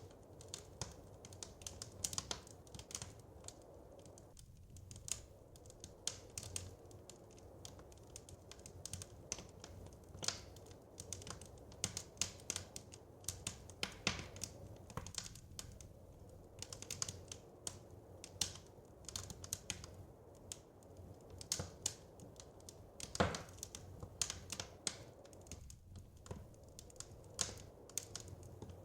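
Wood fire crackling: irregular sharp pops and snaps, several a second, over a low steady rumble, with one louder pop near the end.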